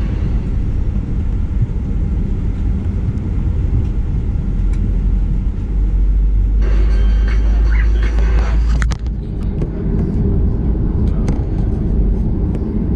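Steady low rumble inside the cabin of a Boeing 737-900ER on the ground before takeoff. It grows louder about six and a half seconds in, with a sharp click near nine seconds.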